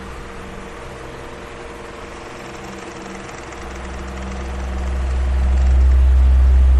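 Electric fan running steadily with a whooshing hiss and a faint motor hum. A deep rumble underneath fades low early on, then swells back up loud near the end.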